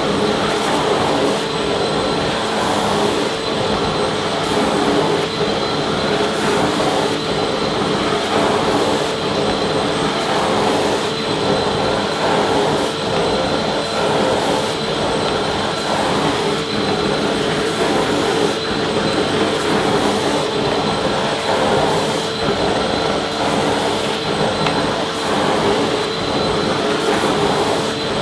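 Vacuum cleaner running steadily: a continuous motor hum and airflow hiss with a constant whine, unchanging throughout.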